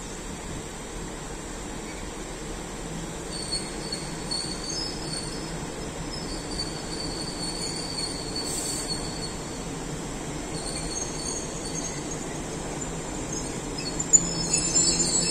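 A slow-moving work train hauled by a TEM2 diesel shunting locomotive and a 6Dh (SM42) diesel locomotive. The wheels squeal in intermittent high thin tones over the low, steady running of the diesel engines and the rolling stock. It grows louder near the end, with a sharp knock.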